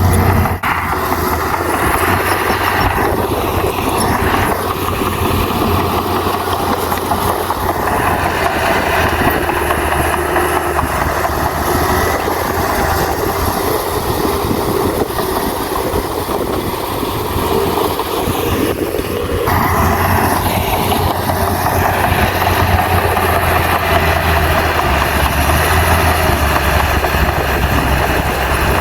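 Heavy bulldozer's diesel engine running steadily under work, with a constant low hum and mechanical clatter; the sound changes abruptly about twenty seconds in.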